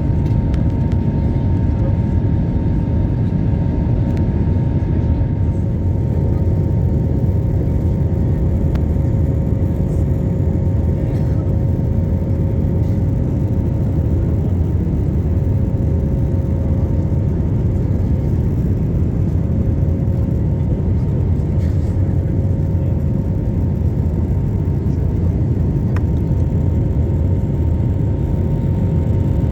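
Airliner engine noise heard inside the passenger cabin: a steady, dense low rumble with a couple of faint steady tones on top.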